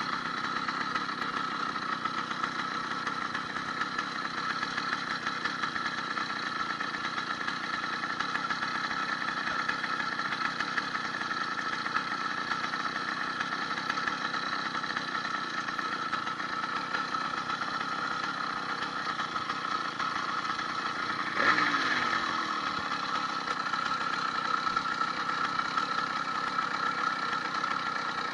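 80cc two-stroke motorized-bicycle engine idling steadily, fitted with a new needle-bearing wrist pin kit. A little past two-thirds of the way through it briefly rises and then falls back.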